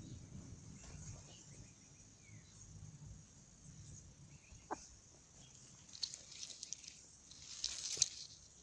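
Chickens dust bathing: faint scratching and rustling in the dirt with a few soft clicks, then a louder burst of rustling near the end.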